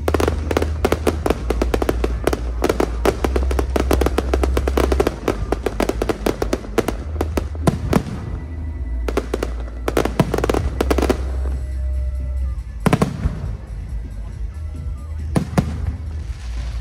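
Aerial fireworks show. Dense, rapid crackling volleys fill the first half, a shorter crackling cluster follows, then a few single loud bursts near the end. Music plays underneath.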